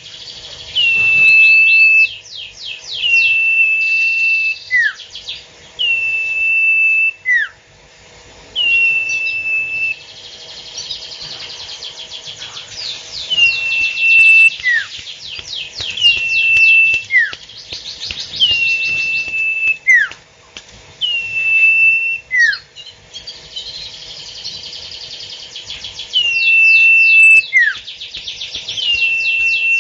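A bird call repeating about every two seconds without pause: a fast ticking trill, then a held high whistle, then a short falling note.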